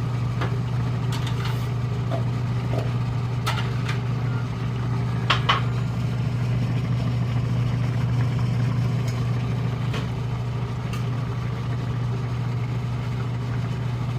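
A steady low mechanical hum, like a motor or engine running, with a few light clicks and knocks. The loudest is a pair of knocks about five seconds in.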